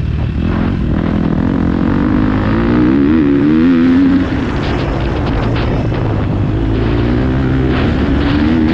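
Motocross bike engine at speed, climbing in pitch as it accelerates, dropping off sharply about four seconds in, then building again near the end.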